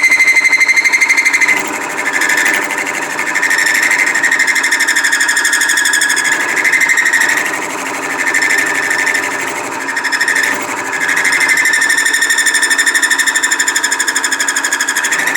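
A high-speed-steel cutter cutting into a steel lead screw shaft on a machine tool, with a loud, high-pitched whine and rapid pulsing of the cut. The cut eases off briefly a few times.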